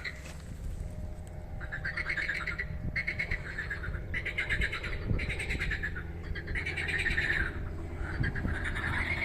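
Frogs calling from a pond: rapid pulsed calls in bursts of about a second, one after another, over a steady low rumble.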